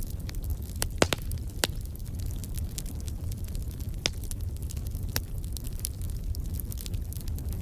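Wood fire crackling, with irregular sharp pops, a few louder ones about a second in and again around four and five seconds, over a steady low rumble.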